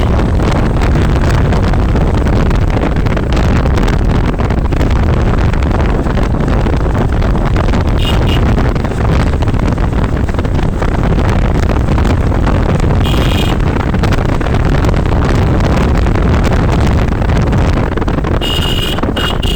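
Wind buffeting the microphone on a moving motorbike, over road and engine noise, with a few short high-pitched beeps.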